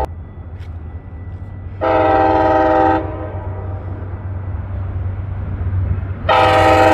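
Locomotive air horn sounding a multi-note chord twice: a blast of about a second, then a longer blast starting near the end, over the steady low rumble of the train.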